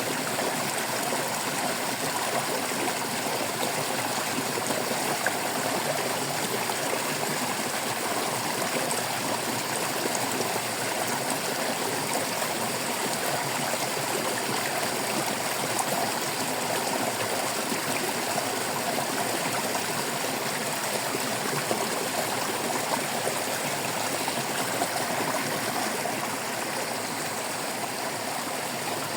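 Water flowing and babbling over stones in a shallow stream, a steady full splashing rush without pause.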